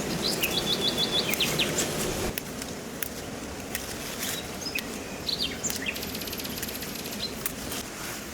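Birds chirping, with a quick run of short repeated notes about half a second in and a few more calls later on, over a steady outdoor background hiss with scattered sharp clicks.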